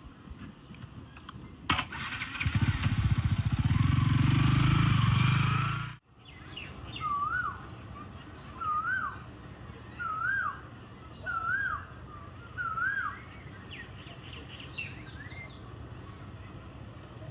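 A motorcycle engine starts with a click and runs for about four seconds, then cuts off abruptly. After that an Asian koel calls five times, each a rising note about a second and a half apart, with fainter chirps from other birds after it.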